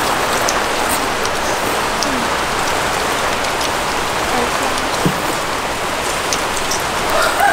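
Steady rain falling, a constant even hiss, with a few faint clicks over it.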